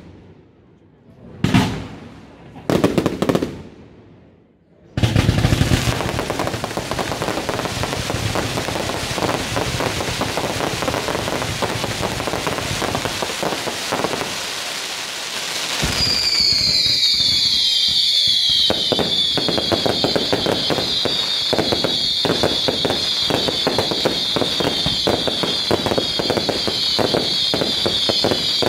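Fireworks display: a few separate shell bursts bang in the first five seconds, then a dense, continuous barrage of crackling and bangs. A little past halfway, a shrill high whistle comes in, dips briefly and then holds over the rapid crackle.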